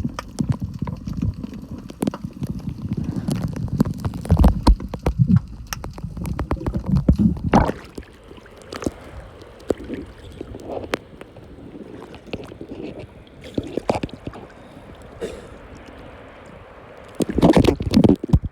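Muffled underwater sound of sea water moving around a submerged iPhone X's microphone: low churning and sloshing with sharp clicks and knocks. It quietens to scattered clicks after about 8 s, and the churning comes back loud near the end.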